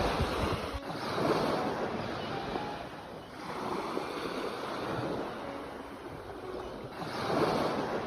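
Sea waves washing in, the surf swelling and falling back about every three seconds.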